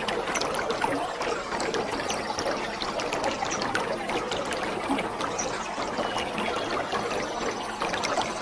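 Waterfall: a steady rush of falling water, with many small splashes and drips ticking through it.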